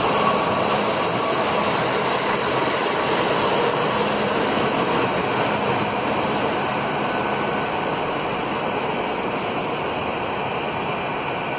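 South Western Railway diesel multiple unit pulling out of the platform close by. A steady rumble of wheels and engine, fading slowly as the train draws away.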